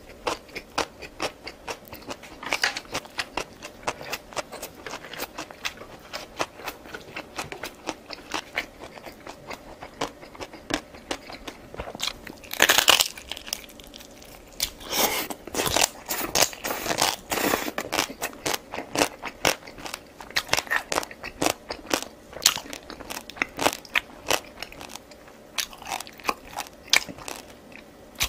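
Close-miked eating: a person chewing and crunching food, a dense run of small irregular crunching clicks, with louder bursts of crunching about 12 seconds in and again from about 15 to 18 seconds.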